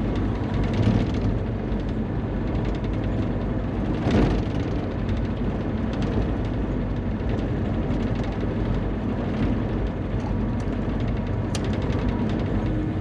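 Bobcat E35 mini excavator's diesel engine running steadily while working, with a sharp thump about four seconds in and a lighter knock about a second in.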